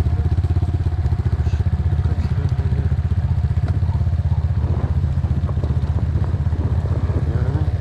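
Enduro motorcycle engine running steadily at low revs, an even rapid chugging with no revving.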